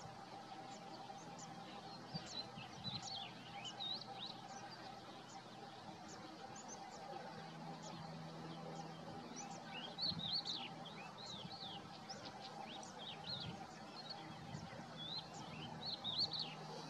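Small birds chirping in the background, short high twittering calls coming in scattered clusters, over a faint steady hum.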